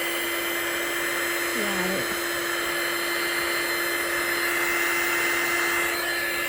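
Handheld hot-air blower running steadily with a constant hum, used to push white resin into waves on a coaster. A short murmur from a voice about two seconds in.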